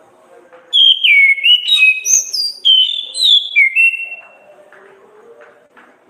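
Orange-headed thrush singing: one phrase of about three seconds, starting about a second in, of clear, fast, loud whistled notes that glide and jump between high and higher pitches, over a faint low background murmur.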